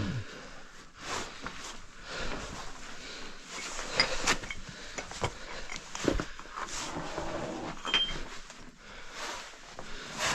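Irregular scrapes, knocks and rustles of cavers moving through a tight rocky cave passage, with gear and boots scuffing against rock.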